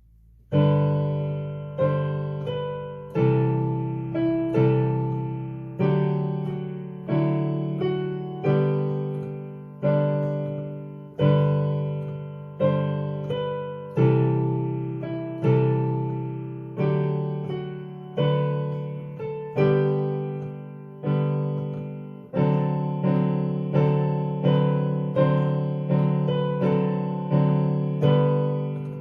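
Piano playing a slow hymn accompaniment in chords. A chord is struck roughly every second and a half and left to fade until the next.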